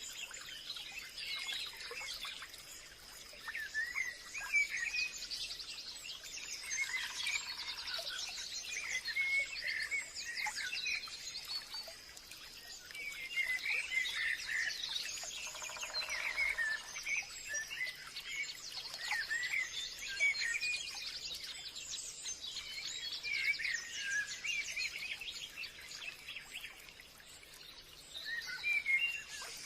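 Forest birds singing and calling, several at once in quick chirps and trills, over a steady high-pitched hum.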